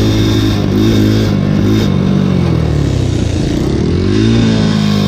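Dirt bike engine running under way: its revs drop over about a second and a half, then climb again and settle.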